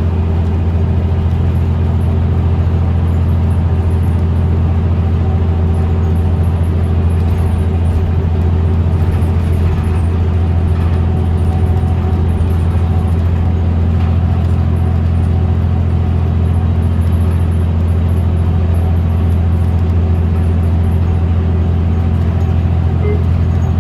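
Interior sound of a 2017 New Flyer XDE40 diesel-electric hybrid bus under way: a loud, steady low drone that holds one pitch throughout. It is the unusual sound of this bus, which the uploader puts down to the transmission or a loose panel rather than the engine.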